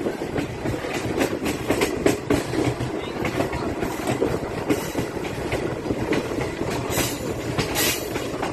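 Passenger train running at speed, heard from an open coach window: steel wheels clatter over the track in a fast, irregular run of clicks and knocks over a steady rushing noise. Two louder hissing rushes come near the end.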